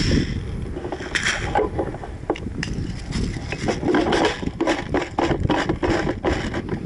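Rustling and scraping with many short, irregular clicks and knocks, over wind noise on the microphone.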